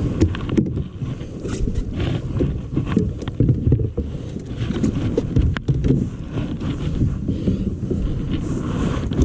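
Wind rumbling on the microphone of a fishing kayak on open water, with scattered light knocks and splashes around the hull.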